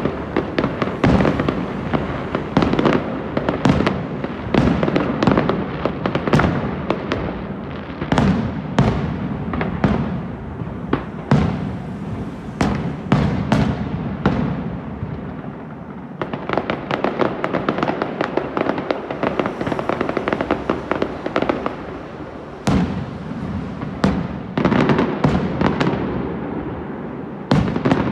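Fireworks display: aerial shells bursting in quick succession with dense crackling, a near-continuous barrage that thins out briefly a little past halfway before building up again.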